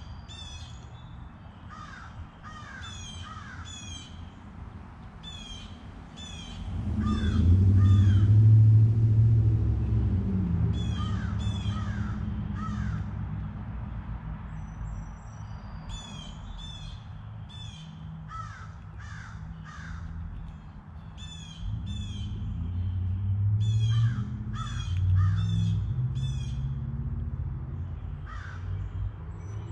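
Birds calling over and over in short runs of calls. A low humming rumble swells up twice, about seven and about twenty-two seconds in, louder than the calls, then fades.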